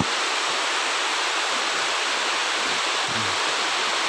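Heavy tropical downpour: very heavy rain falling, a steady, even hiss.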